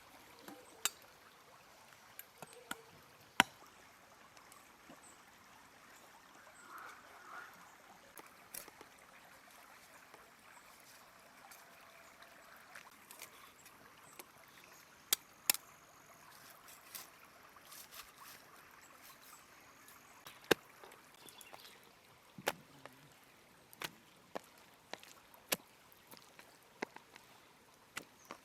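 Irregular sharp taps and clicks, about fifteen, scattered over a faint steady hiss.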